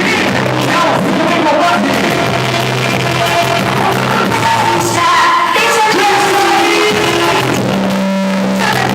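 Loud music with a singing voice, played through an F-250 truck's car-audio sound system.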